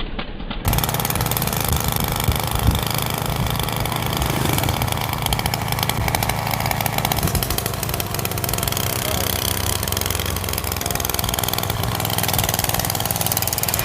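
Old TVS XL moped engine fitted to a bicycle, running with no silencer: a loud, steady, rapid exhaust buzz. It starts abruptly under a second in.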